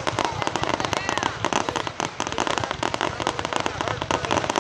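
Fireworks going off in a dense, unbroken crackle of many rapid small bangs.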